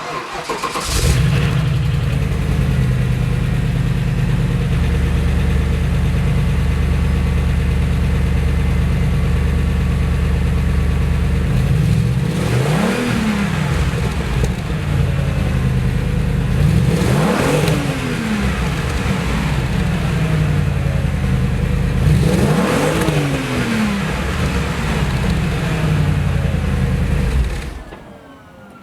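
2003 Audi RS6's 4.2-litre twin-turbo V8 with Audi's sound-enhancing exhaust starting up, settling into a steady idle, then revved three times, each rev rising and falling back to idle. The engine cuts off about a second before the end.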